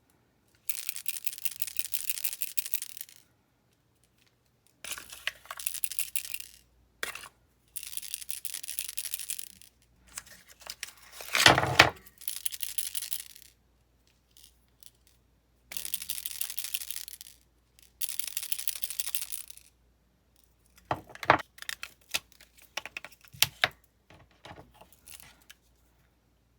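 Packaging being torn open in a series of long rips, about seven in all. A louder crinkling rustle comes about a third of the way through, and a few light clicks near the end.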